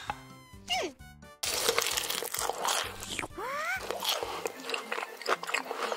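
Crunchy biting and chewing sounds of pizza being eaten, a dense run of crunches starting about a second and a half in, over light background music. A short rising voice-like glide comes about midway.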